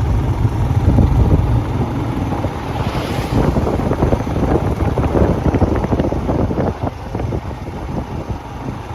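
Strong wind buffeting the microphone: a loud, low rumble with irregular crackling gusts, and one hissier gust about three seconds in.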